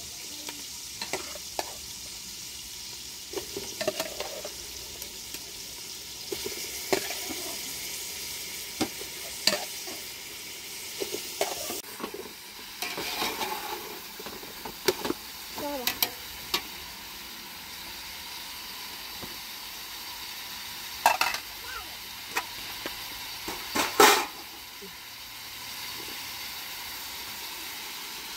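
Onions and meat sizzling in a metal pot on a portable gas stove, with a metal ladle scraping and clinking against the pot as the food is stirred and added. A sharp clank near the end is the loudest sound.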